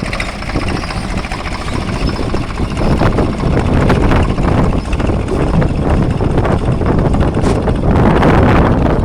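Tractor engine running steadily under load, getting somewhat louder about three seconds in.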